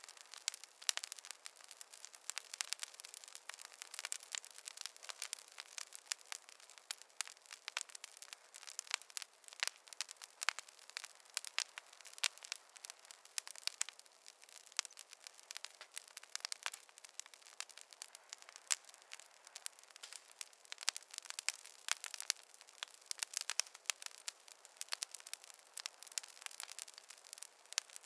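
Wood logs burning in a fireplace, crackling with a steady stream of sharp pops and snaps.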